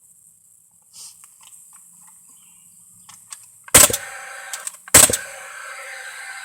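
Paslode cordless gas framing nailer firing two nails about a second apart, each shot a sharp loud crack. Its fan runs with a steady whir after the first shot, clearing the combustion chamber. A few light taps and clicks of handling come before the shots.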